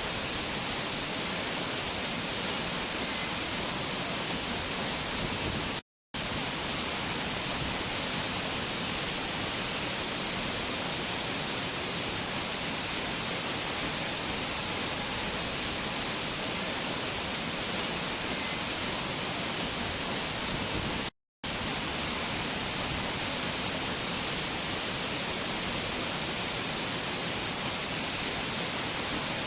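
Waterfall: a steady, unbroken rush of falling water that cuts out to silence twice, briefly, about six and twenty-one seconds in.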